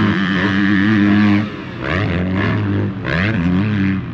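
Motocross dirt bike engines revving hard, held at high revs, then the note drops off about a second and a half in and climbs again with rising and falling revs.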